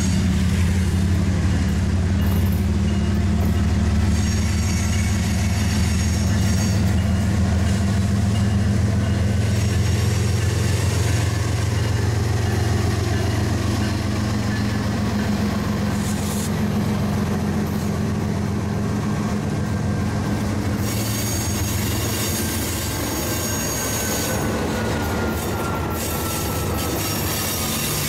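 CSX freight train passing at close range: diesel locomotives go by with a deep, steady engine drone that eases after about twenty seconds, giving way to covered hopper cars rolling past. A faint tone slides down in pitch near the end.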